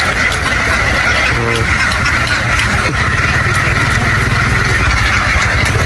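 A large flock of ducks quacking all at once in a dense, continuous din, over a steady low rumble.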